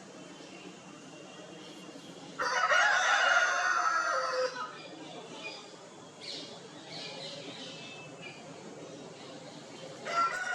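A rooster crowing once, a loud call of about two seconds starting a little over two seconds in, followed by fainter, shorter chicken calls.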